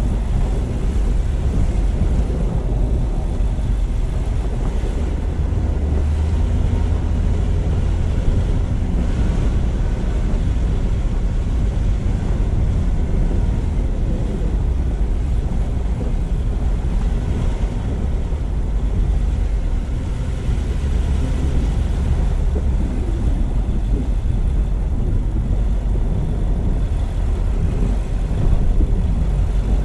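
Steady low rumble of a car driving along: road and tyre noise, with wind on the microphone.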